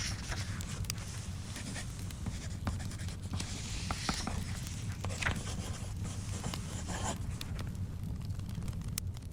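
Wood fire crackling in a fireplace with a low steady rumble, while paper book pages are turned with soft swishes, about four and seven seconds in.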